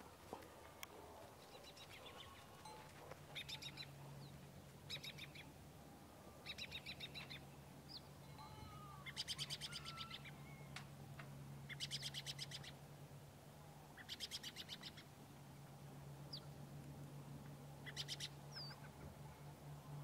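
Faint birdsong: a short, rapid high trill repeated about every two to three seconds, with a few brief chirps between, over a low steady hum.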